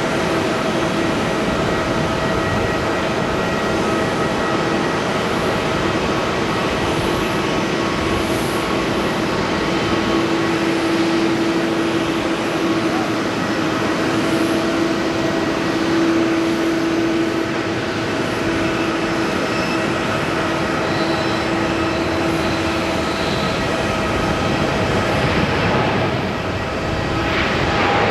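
Jet airliner engines running: a steady rushing noise with a steady hum that grows stronger in the middle and fades again.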